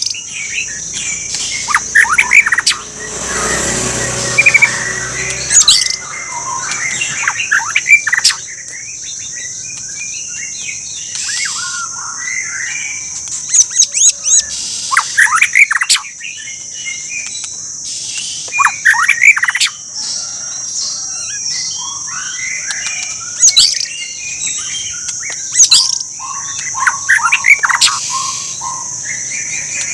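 White-rumped shama in vigorous song: loud, varied whistled phrases and sharp chirps, a new burst every couple of seconds, over a steady high-pitched hiss.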